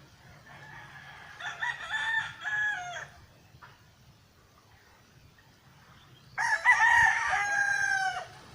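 Rooster crowing twice, the second crow louder and longer than the first.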